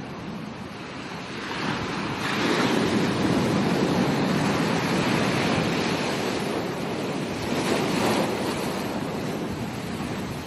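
Ocean waves breaking on a beach: the surf swells about a second and a half in, holds loud for a few seconds, surges again near eight seconds, then washes back more quietly.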